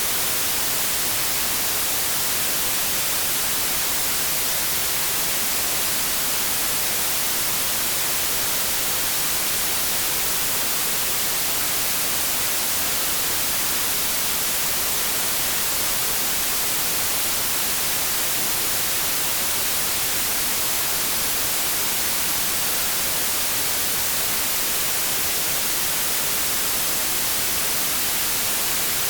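Synthetic white noise: a steady, unchanging hiss, brightest in the high frequencies.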